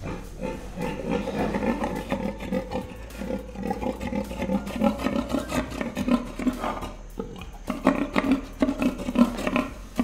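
Several pigs grunting, a fast, uneven run of overlapping grunts.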